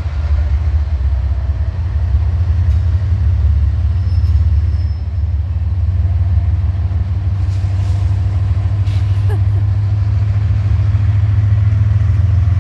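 Slow-moving train passing, a steady low rumble with a faint thin squeal about four seconds in.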